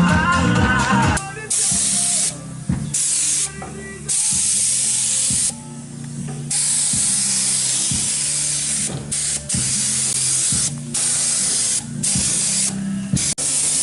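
Paint spray gun hissing in repeated bursts of one to three seconds as the trigger is pulled and released, over a steady low hum. Music fades out about a second in.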